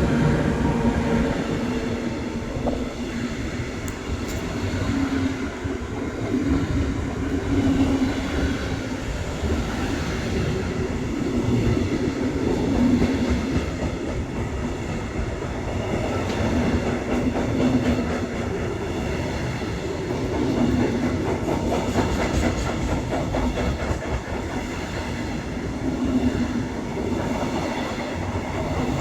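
A train rolling past at close range for the whole stretch, its wagon wheels clattering steadily on the rails and the rumble swelling and easing again and again as the cars go by.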